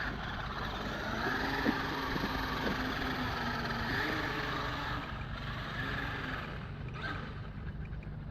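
Traxxas X-Maxx RC monster truck's brushless electric motor whining as it is driven, its pitch rising and falling over the first few seconds and then fading.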